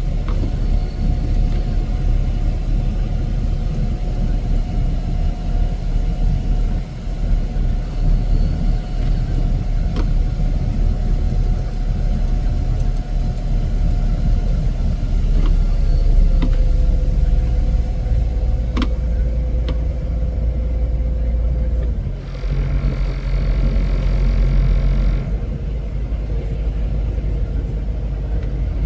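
Heavy snow-removal machinery running with a steady low engine rumble and a faint whine that drops a little in pitch about halfway through. A few sharp clicks, and the sound changes abruptly for about three seconds near the end.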